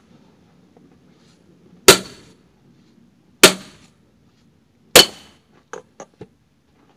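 Axe striking firewood three times in a steady rhythm, sharp cracks about a second and a half apart, followed by a few lighter knocks near the end.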